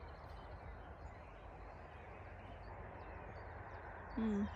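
Faint steady outdoor background noise with a low rumble on the phone's microphone. About four seconds in comes a brief low voiced hum, a short 'mm' sound, louder than the rest.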